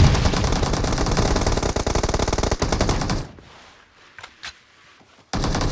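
Video-game automatic weapon firing in a long rapid burst of about three seconds, then a pause with a couple of faint clicks, then a second burst starting near the end.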